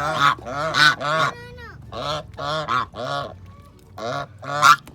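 Domestic geese honking: a rapid series of about ten short, loud calls, each rising and falling in pitch.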